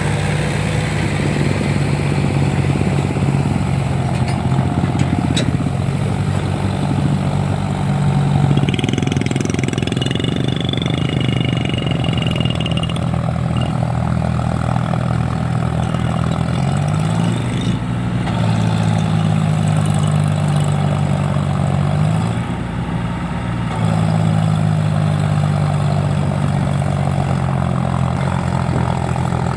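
Diesel tractor engine running steadily while pulling a loaded sugarcane trolley. Its pitch rises a little past halfway, then dips briefly and picks up again near the end.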